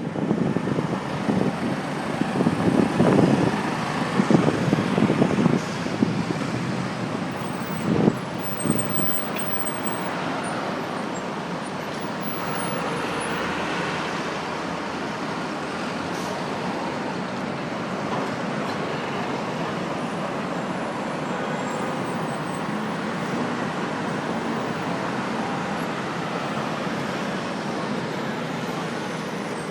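Wind buffets the microphone of a handlebar-mounted phone on a moving bicycle in uneven gusts with a few thumps for the first eight seconds or so. After that comes a steady wash of city street traffic and road noise.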